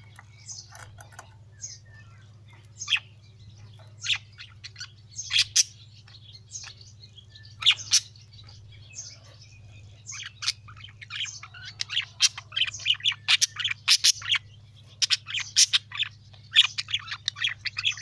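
Pet budgerigars and cockatiels chirping and chattering in many short, sharp calls. The calls come thicker and faster in the second half, over a steady low hum.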